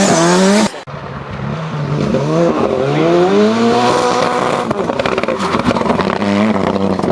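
Ford Sierra Cosworth rally car's turbocharged four-cylinder engine under hard acceleration, revs climbing and falling through gear changes. The note drops off sharply under a second in, then builds again, with a short run of crackles about five seconds in.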